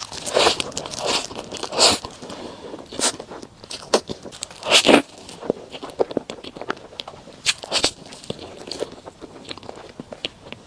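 Close-miked eating sounds of a soft matcha dessert: irregular chewing, smacking and mouth clicks, loudest about five seconds in.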